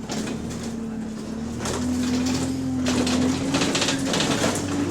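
Bus engine pulling under load, its tone climbing slowly as the bus picks up speed, with bursts of hissing over it from a leaking exhaust.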